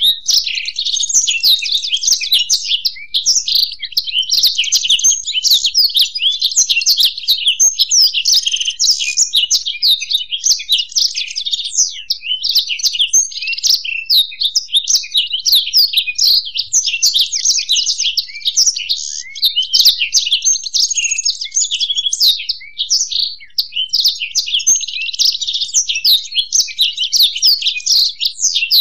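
Black-throated canary (blackthroat) and European goldfinch singing together: a dense, near-continuous stream of fast high chirps and trills.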